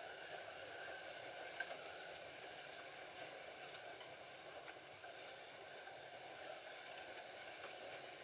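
Scalextric Ford GT40 slot cars lapping the track, a faint steady whirr of their small electric motors and wheels running on the plastic track.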